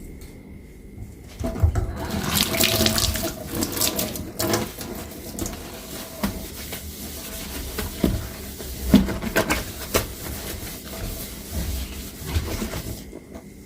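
Kitchen tap water running into a sink during hand dishwashing, turned on about two seconds in and off near the end, with scattered knocks and clinks of dishes being handled under it.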